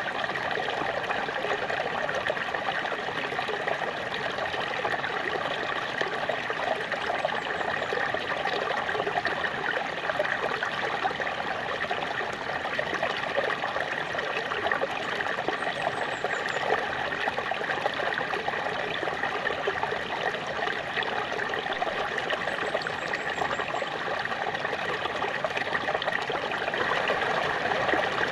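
Small waterfall splashing and trickling, a steady, even rush of falling water.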